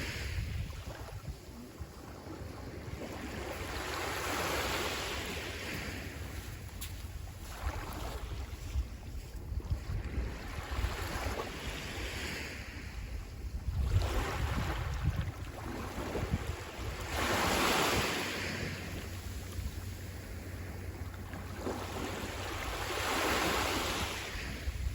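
Sea waves breaking and washing up the shore, the hiss swelling and fading every five or six seconds. Wind rumbles on the microphone underneath.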